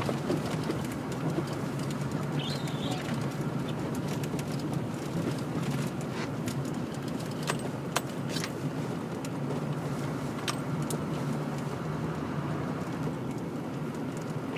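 Steady running noise heard from inside a four-wheel-drive vehicle's cabin as it drives slowly on a snow-covered road: a low engine and road hum, with scattered light clicks and a brief high squeak a couple of seconds in.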